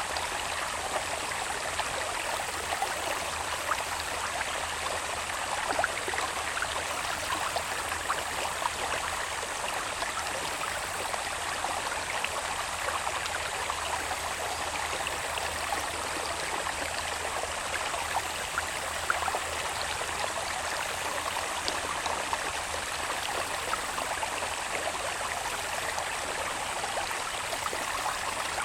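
Water babbling steadily in a small irrigation channel fed from the hillside, a dense trickle full of tiny splashes. A steady high insect drone sits faintly behind it.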